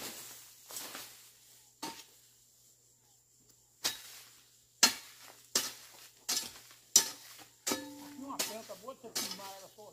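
Hoe chopping into soil and weeds while weeding by hand: scraping at first, then sharp strikes about every 0.7 s. A voice starts near the end.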